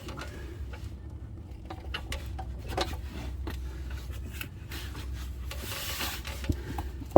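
Scraping and rubbing, with scattered light knocks and clicks, as a 7-speed automatic transmission on a jack is pushed and shifted into position under a car. A longer scrape comes about six seconds in.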